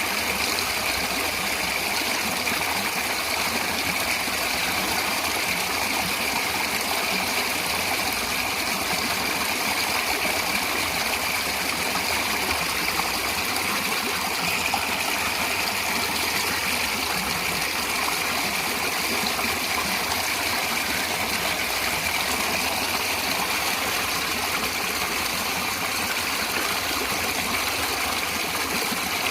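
Natural running water flowing steadily, an even, unbroken rush of water.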